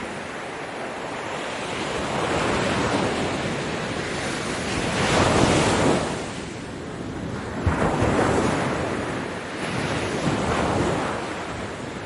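Ocean waves breaking on a beach, a continuous wash of surf that swells and recedes, with the biggest wave crashing about halfway through and smaller ones after it.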